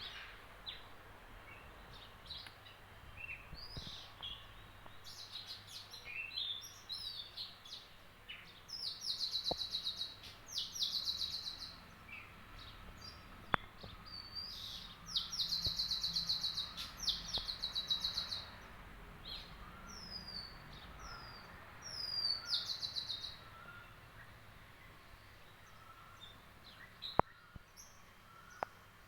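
Several small songbirds chirping, with short down-slurred whistles and repeated bursts of fast trilled chatter, each lasting two to three seconds. A few sharp clicks stand out near the end.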